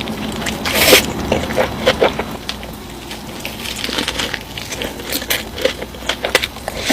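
Close-miked eating sounds: wet chewing and squishing broken by many short crisp crunches and clicks, with one louder crunch about a second in.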